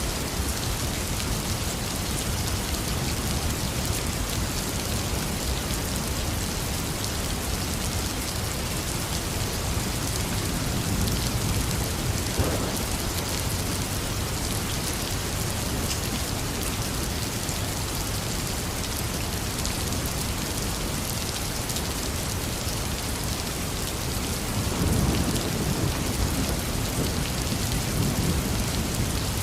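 Heavy rain falling steadily, with low rumbles of thunder about ten seconds in and again about twenty-five seconds in.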